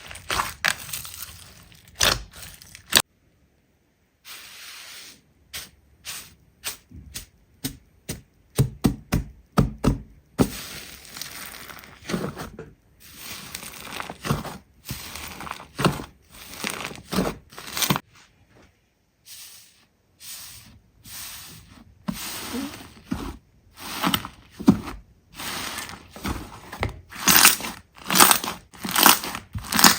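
Hand-played slime being pressed, squeezed and poked, giving a run of sticky crackles and popping clicks, thickest in quick runs near the end. The sound drops out briefly a few times.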